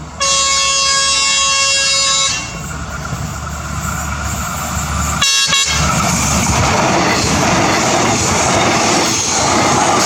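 Train horn sounding one long blast of about two seconds, then a short second blast about five seconds in, over the rising rumble and rail noise of a passing train.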